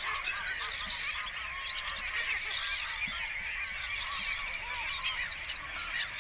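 A large flock of birds calling continuously, many short calls overlapping into a dense chorus.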